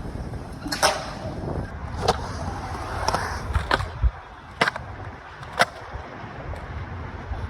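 Skateboard rolling on pavement with a steady low rumble, cut through by about six sharp cracks of the board's tail popping and landing.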